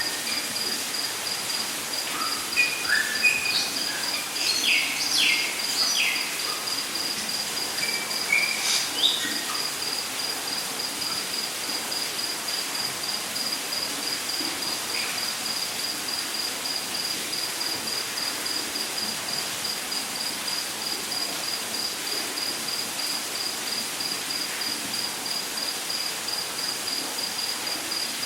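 Rainforest ambience: an insect, cricket-like, chirps in a high, even, rapid pulse over a steady hiss of water. For roughly the first nine seconds birds add short chirps and whistles.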